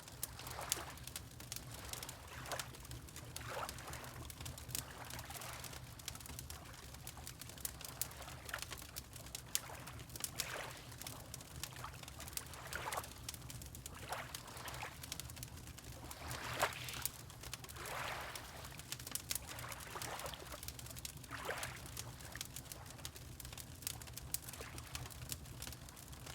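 Water lapping in soft washes every second or two, over the crackle of a wood fire: many small sharp pops scattered throughout. A steady low hum runs underneath.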